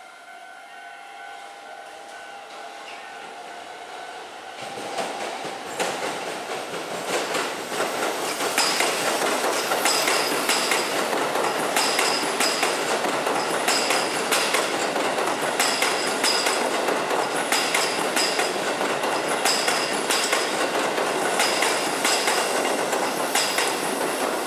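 Hokuso Railway 7500 series electric train passing close by, its wheels clicking over the rail joints in a regular rhythm. Its running noise swells up about five seconds in and stays loud as the cars go by.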